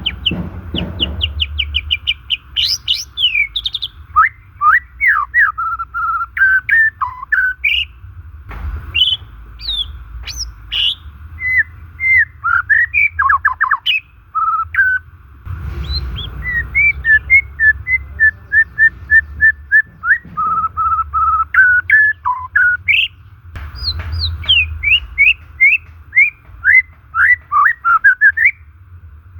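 White-rumped shama singing a long, varied song of clear whistled notes, fast runs of repeated notes and quick upward and downward sweeps, with hardly a pause. A low rumble runs underneath.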